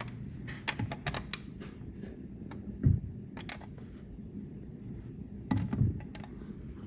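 Scattered clicks and a few light knocks of handling, a couple of them heavier thumps around the middle and near the end, over a steady low background hum.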